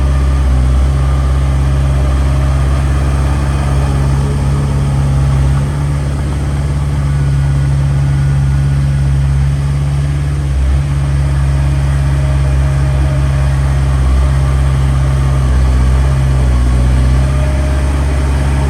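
Small bulldozer's diesel engine (Komatsu D21P) running steadily at working speed, with only brief small dips in load.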